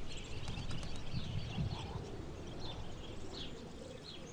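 Birds chirping in short, scattered high calls over a steady low background rumble.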